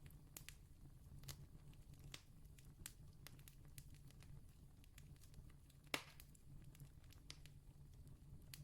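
Campfire crackling faintly: scattered small pops and snaps, with one sharper pop about six seconds in, over a faint low steady hum.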